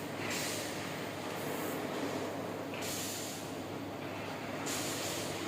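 Steady industrial machinery noise with a constant low hum, and a hiss that swells up several times.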